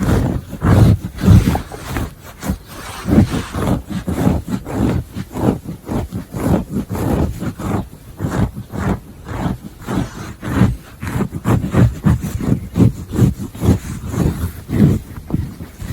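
Scratching on fabric in quick, irregular strokes, about two to three a second, with a dull, rasping texture.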